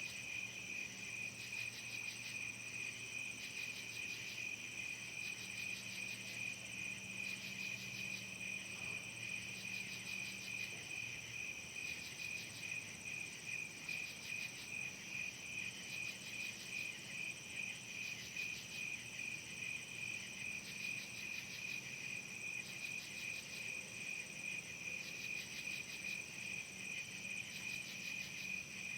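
Evening chorus of crickets and other insects: a steady, rapidly pulsing chirp with higher, even buzzing tones above it, running on without a break.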